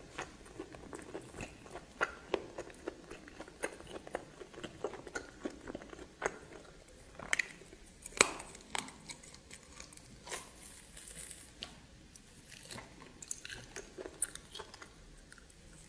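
A person chewing and biting into steamed snake close to the microphone: a dense run of crunches and wet clicks, with the loudest bite about eight seconds in, then softer, sparser chewing.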